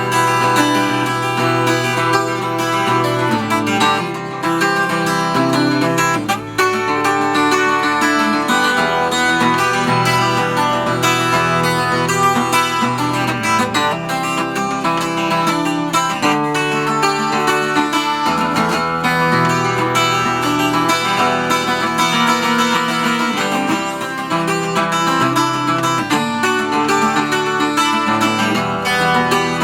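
Acoustic guitar music without singing, instrumental playing after a song's last verse, with strummed and plucked chords.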